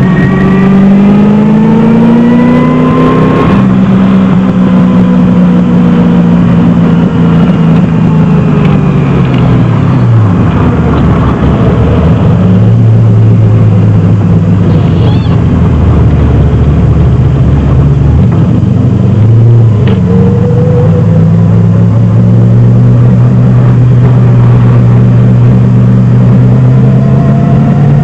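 1971 Datsun 240Z's 327 small-block Chevy V8 heard from inside the cabin while lapping. The engine note climbs under acceleration, drops suddenly about three and a half seconds in, sinks to a low drone through the middle, then climbs again around twenty seconds in and holds higher.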